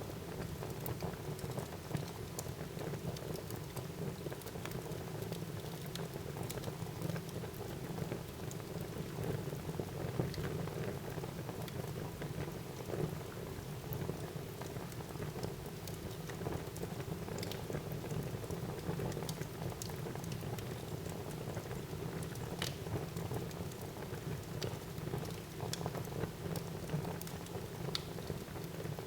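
Fire burning in a fireplace, crackling steadily: a soft, even hiss with frequent sharp snaps and pops scattered throughout.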